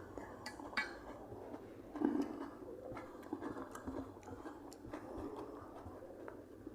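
Someone eating a meal off a plate: scattered small clinks and taps of dishes and cutlery, with chewing sounds between.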